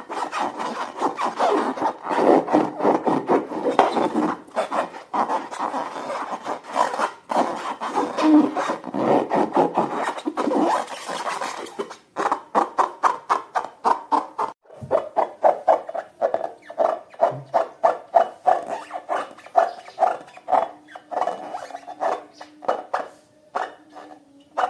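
Slime being worked by hand or with a utensil: a dense, sticky squishing and rubbing, which about halfway through becomes a regular stirring rhythm of roughly three strokes a second.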